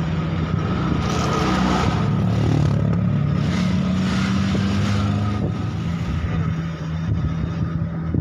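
Car engine running steadily on the move, with road and wind noise swelling and fading over it; the engine note steps down about five seconds in.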